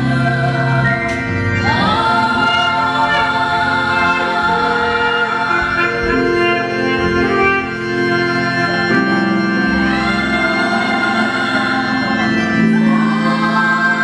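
Church choir singing with organ accompaniment, sustained chords with voices swelling in afresh a few times.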